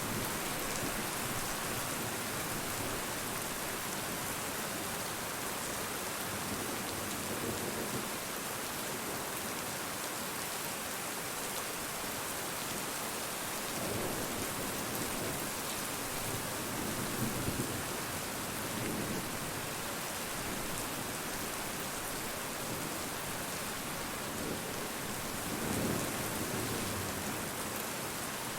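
Steady rain falling, with a few soft low rumbles of distant thunder swelling up now and then.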